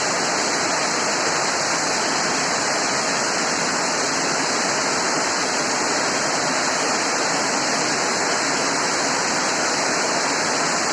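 Heavy rain pouring down, a steady rushing of water without a break.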